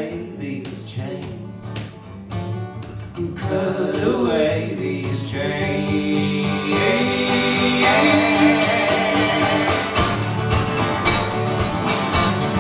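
Live acoustic guitar music with singing: plucked strokes, then long held notes from about four seconds in, swelling in the closing bars of the song.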